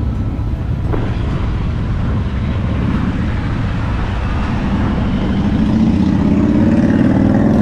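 Motorcycle engine running with a steady low rumble, its pitch rising over the last three seconds or so as it revs up.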